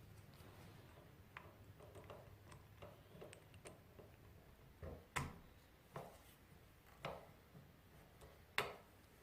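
Faint hand work on parts: a run of small ticks and taps, then four sharper clicks or knocks about a second apart, the last one the loudest.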